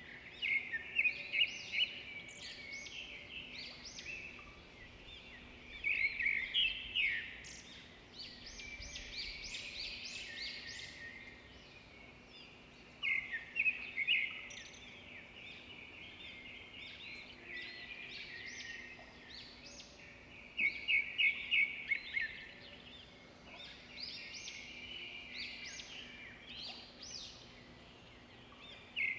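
Songbirds singing: phrases of rapid high chirps and trills recur about every seven seconds, with quieter chirping between.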